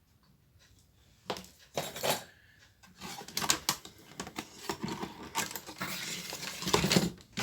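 Small metal tools and parts clinking, rattling and scraping on a workbench, as a repairer handles them. A few scattered clicks come about a second in, then a busier run of clatter from about three seconds in.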